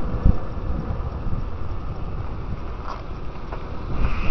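Wind buffeting the microphone while riding a bicycle: a steady low rumble, with a low thump about a quarter second in.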